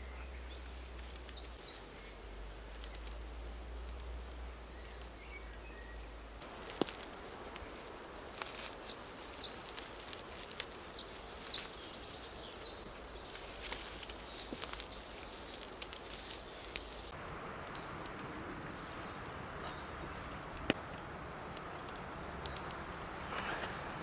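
Woodland ambience with small birds chirping in short repeated calls, over a steady outdoor hiss, with a few sharp clicks or knocks and a brief rustle in the middle.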